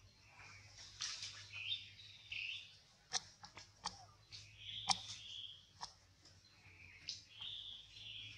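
Birds chirping with short, high calls repeating throughout, mixed with a few sharp clicks, the loudest about five seconds in.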